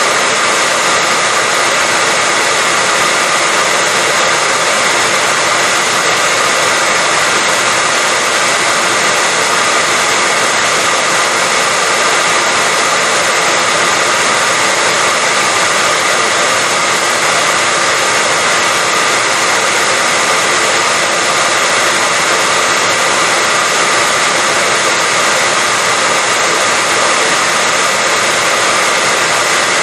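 Hair dryer running continuously at a constant speed: a steady, loud whooshing hiss of blown air with a faint steady whine from the motor, played as white noise to lull a baby to sleep.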